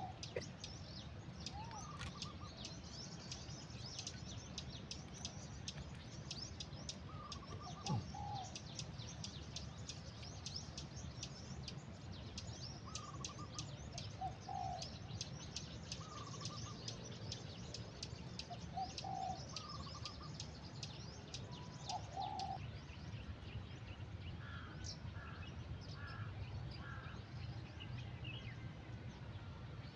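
Birds calling: a dense, rapid high twittering throughout, with a lower, short two-part call repeated about every three seconds and a quick run of four notes near the end.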